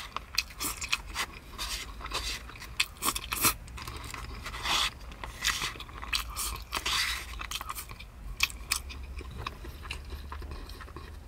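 A person chewing and biting into food, with many small irregular crunches and mouth clicks.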